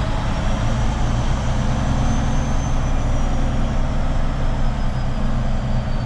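Heavy truck's diesel engine running steadily at road speed with road noise, and a faint high whine that rises and then falls.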